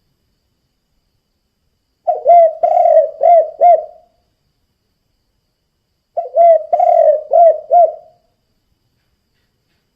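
Spotted dove cooing in its 'kuk 2' style: two phrases of about five rounded, low coos, each phrase about two seconds long, the second coming about four seconds after the first.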